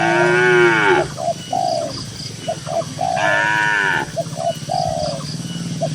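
Cow mooing twice, each call about a second long and falling in pitch, the second about three seconds after the first. Doves coo in short repeated notes throughout.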